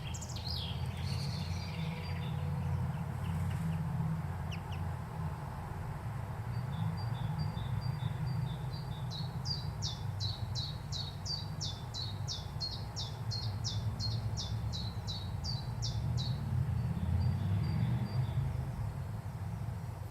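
A small songbird singing a long series of high notes, evenly repeated at about two to three a second, starting faint and growing stronger, then stopping near the end; a steady low rumble lies underneath throughout.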